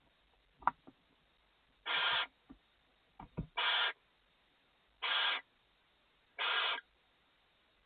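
Barn owl giving four short rasping hiss calls, about one every second and a half. A few light knocks and scratches in the nest box fall between them.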